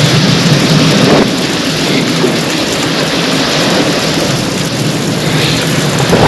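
Heavy rain pouring steadily, a dense even hiss of falling water that is a little louder for the first second or so.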